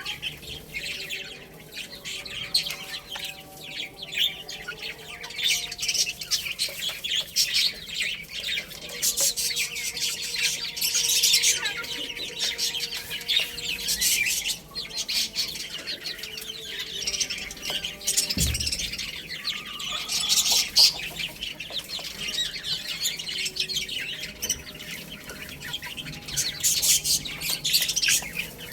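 A group of baby chicks cheeping continuously, many short high calls overlapping, with one brief low thump about two-thirds of the way through.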